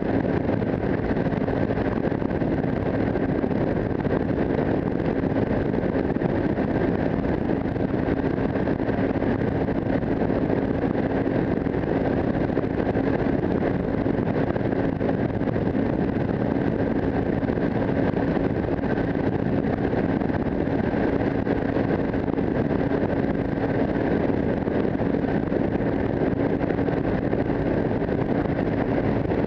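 AKT 250 Adventour's single-cylinder engine running at a steady highway cruise, with wind rushing over the microphone. The engine note holds an even pitch throughout.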